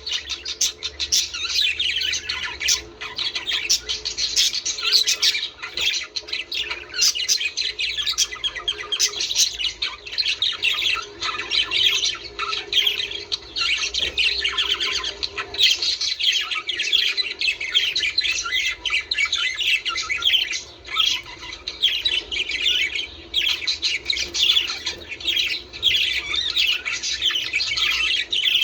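Budgerigars chattering: a dense, continuous stream of rapid chirps, warbles and squawks with no break.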